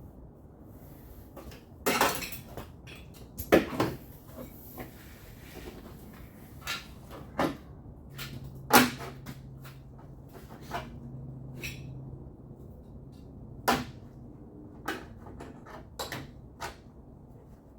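Irregular knocks, clicks and clatters of metal tools and parts being handled, a few of them sharp and loud, with a faint steady hum for a few seconds in the middle.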